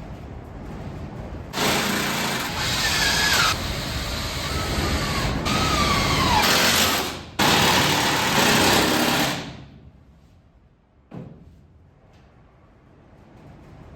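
Power drill running in two long runs, about five seconds and then two seconds, with a short break between; its pitch sags and rises as it loads up. A single sharp knock follows near the end.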